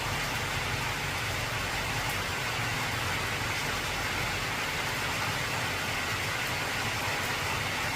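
Heavy rain falling on an old corrugated tin roof, a steady dense hiss. A low rumble under it fades out about halfway through.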